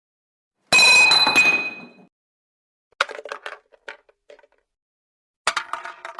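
Metal objects dropped onto a hard floor: a loud crash with a ringing metallic tone that fades over about a second, then a run of smaller clinks and bounces, and another clatter near the end.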